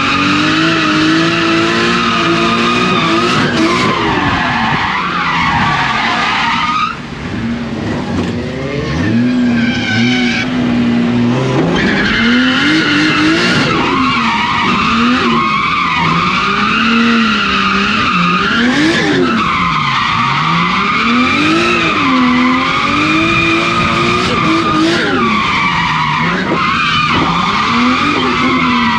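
Drift car at full effort on track: the engine revs climb and fall every couple of seconds, with tyres sliding and squealing through the drifts. There is a brief easing of the revs and loudness about seven seconds in.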